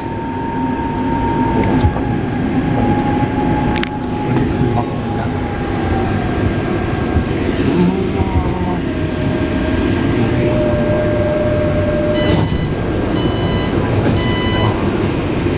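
Taipei Metro C381 train's traction motors whining over the rumble of wheels on rail, the whine sliding slowly down in pitch as the train slows into a station. Near the end come three short high electronic beeps.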